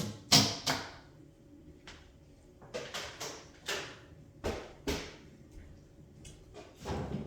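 A series of light knocks and clatters of tableware being handled at a table, about a dozen scattered over several seconds, loudest just after the start.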